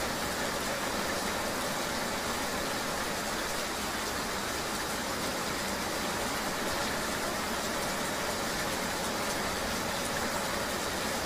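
Ambient recording of a rainy ride: a steady hiss of rain and road noise with a low motor-vehicle engine hum underneath, unchanging in level.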